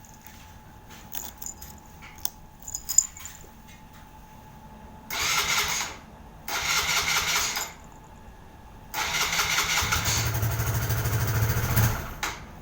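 Suzuki GN125H's single-cylinder engine being started on the electric starter with its freshly recharged battery. After a few light clicks come two short bursts of cranking of about a second each, then a longer try of about three seconds that takes on a low, even pulsing before it stops abruptly.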